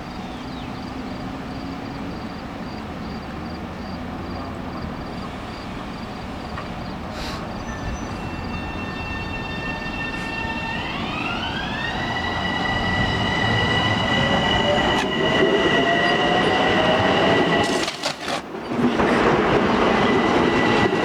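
Long Island Rail Road M7 electric train approaching, its running noise growing steadily louder. About halfway through, the traction motors' whine rises in pitch over a couple of seconds and then holds steady as the train draws close.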